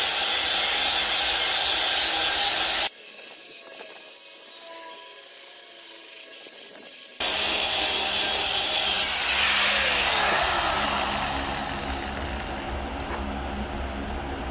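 A grinder sharpening the edges of steel splitter blades cut from a vehicle leaf spring, a loud grinding hiss that drops away sharply for a few seconds and then returns. From about nine seconds in, the motor's pitch falls as it spins down.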